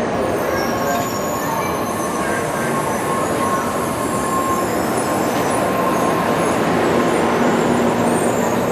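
N700 series Shinkansen train rolling slowly past on the approach into the station, a steady rumble of wheels on rail. A thin steady tone rides over it for the first few seconds.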